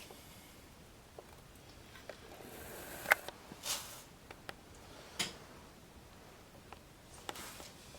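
Scattered small clicks and taps of parts and tools being handled at a truck's front wheel hub, the sharpest about three seconds in and again about five seconds in.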